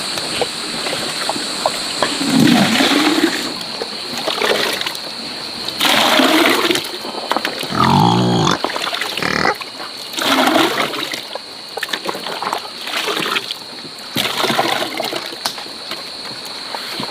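Pigs grunting and squealing in about six separate calls, one of them a longer pitched squeal midway, over wet splashing and sloshing.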